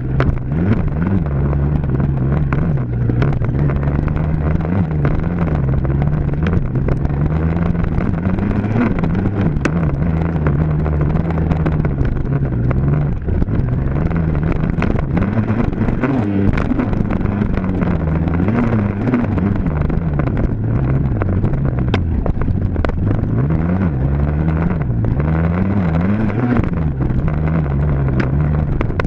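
Dirt bike engine being ridden hard, its pitch rising and falling again and again as the throttle is opened and rolled off.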